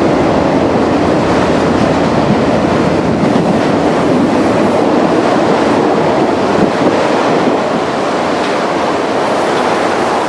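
Freight train of enclosed autorack cars rolling past just below: steady, loud wheel-on-rail noise from the passing cars.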